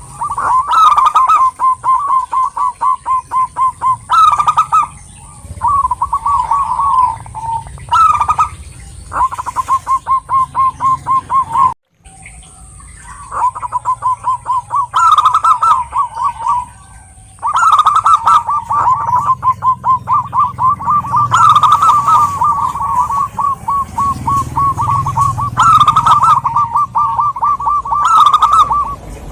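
Zebra dove (perkutut) song: phrase after phrase of rapid staccato cooing notes, with short gaps and a sudden break about twelve seconds in. A thin, steady high whine runs behind the song and stops a little past halfway.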